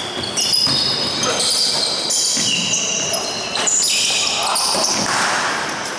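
Basketball game court sounds in a hall: the ball bouncing on the floor, sneakers squeaking in short high chirps, and players' voices calling out.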